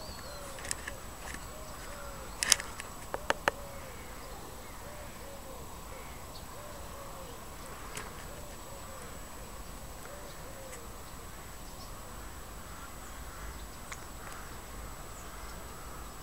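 A bird calling outdoors in runs of short, low notes, about two a second, which stop about eleven seconds in. A few sharp clicks come between two and a half and three and a half seconds in.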